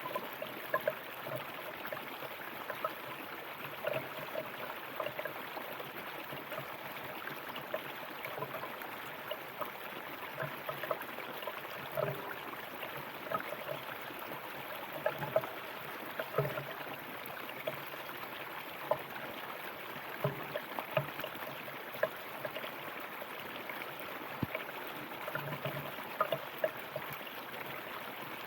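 River water flowing in a steady rush, broken by frequent small, irregular gurgles and splashes.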